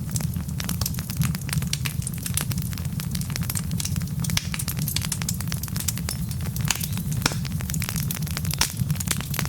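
Wood fire burning in a fireplace: a steady low rumble of the flames with many sharp, irregular crackles and pops from the burning logs.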